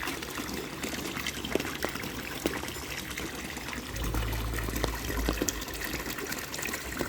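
Steady splashing and trickling of water in an outdoor goldfish tank setup, from inflowing water, overflow and strong aeration, with scattered small drips. A low rumble comes in about four seconds in for a second or so.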